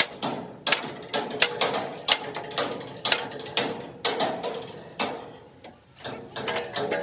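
Hand tools working on truck body metal: irregular sharp metallic clicks and knocks, several a second, some with a faint ring, pausing briefly near the end.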